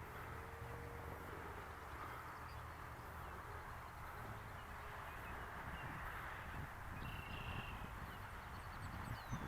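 Faint outdoor ambience: a steady low hum and haze, with a brief high bird chirp about seven seconds in.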